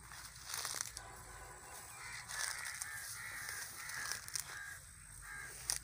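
A bird calling in a quick series of short notes over a few seconds, with brief rustles and crackles of brush pushed through at the start and near the end.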